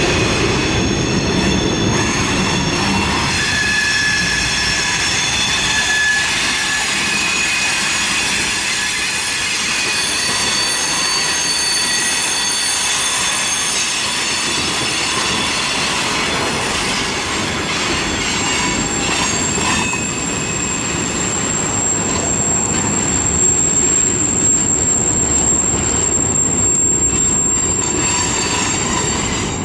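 Freight cars rolling past on a curve: steel wheels rumbling on the rails, with flange squeal in several high-pitched tones that come and go. From about two-thirds through, one thin, very high squeal holds steady.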